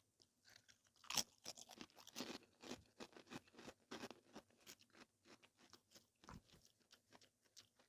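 Close-up crunchy chewing: a loud crunching bite about a second in, then a steady run of crunches as crisp food is chewed.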